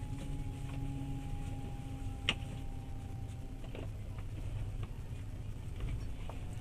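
Passenger train running, heard from inside the carriage: a steady low rumble with a faint steady whine and a few faint clicks, and one sharp click a little over two seconds in.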